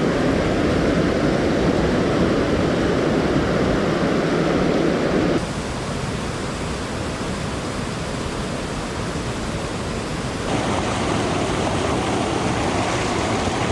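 Mountain stream water rushing over rocks, a steady loud noise that changes suddenly in level and character about five seconds in and again about ten seconds in.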